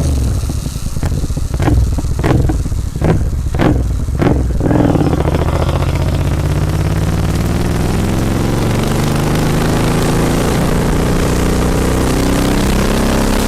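Royal Enfield Continental GT 650 parallel-twin through a Red Rooster aftermarket exhaust. For the first four seconds or so it gives a run of short, sharp bursts about one and a half times a second. It then pulls steadily, the engine note rising slowly as it accelerates, and holds a steady note near the end.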